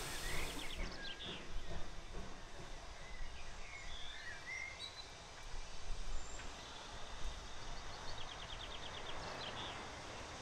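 Outdoor ambience of small birds chirping, with a low rumble underneath. A fast trill of ticking notes comes shortly after the start and again near the end.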